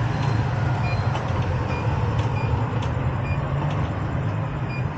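Short, high electronic beeps from a door keypad as a code is keyed in, a few at uneven intervals, over a steady low motor hum.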